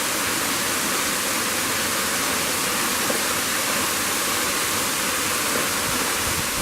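A steady, even hiss with no breaks or changes.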